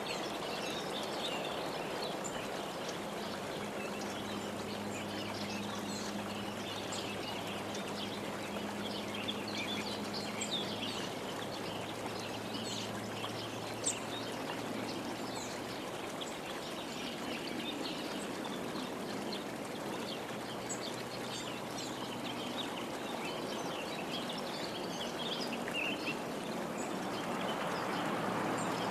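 Many small birds chirping and twittering over a steady rushing background like flowing water or wind. A faint low hum sits underneath through the first half or so.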